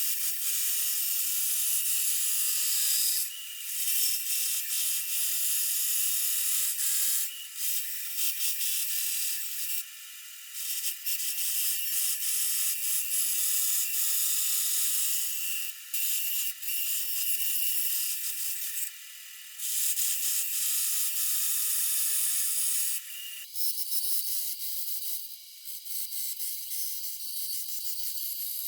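Hissing, scratchy noise of a tool working wood, in long stretches broken by short pauses, thinner and higher after about 23 seconds.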